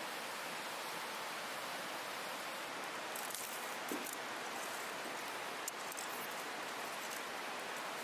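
Steady rushing of a river flowing past, with a few faint clicks.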